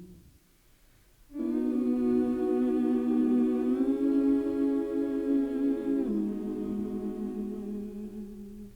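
Wordless hummed vocal music: long sustained notes that come in about a second and a half in after a brief hush, step up in pitch about halfway and drop back down near the end.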